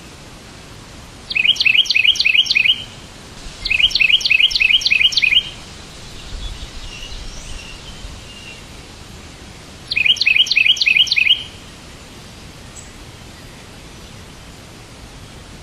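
A songbird singing three short bouts, each a fast run of about eight repeated chirping notes lasting about a second and a half, over a steady background hiss. Fainter, softer calls come between the second and third bouts.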